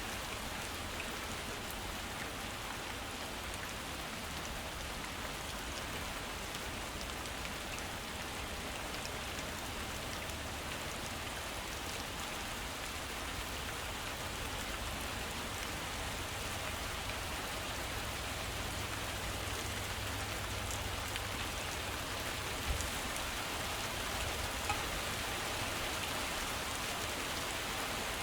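Heavy rain falling steadily, a constant hiss of drops on surfaces, with two brief ticks in the last third.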